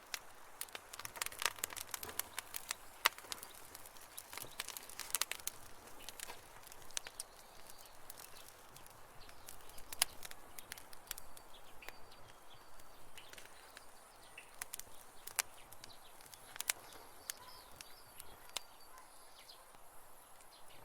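Campfire burning, crackling with irregular sharp pops that come thickest in the first few seconds and thin out after, over a soft steady hiss. Faint bird chirps in the background in the second half.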